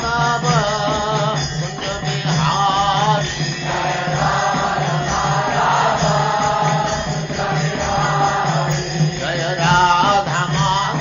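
Devotional chanting: a sung mantra in phrases with short breaks, over a steady low drone.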